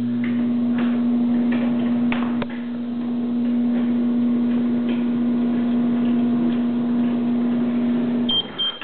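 Microwave oven running with a steady electrical hum while metal keys inside crackle with scattered sharp clicks as they arc. Near the end the hum stops and the oven gives short beeps.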